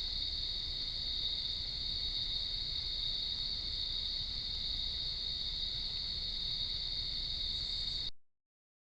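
Steady high-pitched insect chorus with a faint low rumble beneath it, cutting off abruptly near the end.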